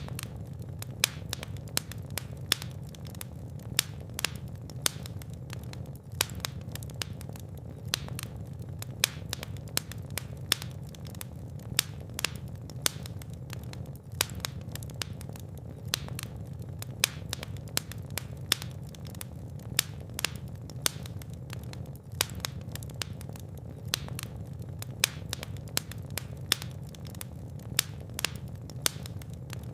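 Fire burning in a fireplace, crackling with frequent sharp pops over a steady low rumble of the flames.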